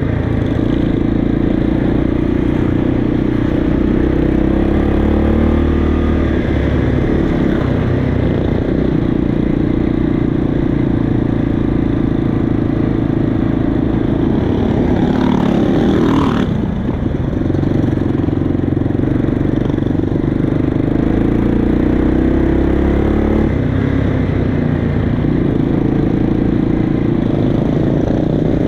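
Motorcycle engines running steadily, with one engine's pitch rising and falling sharply about halfway through.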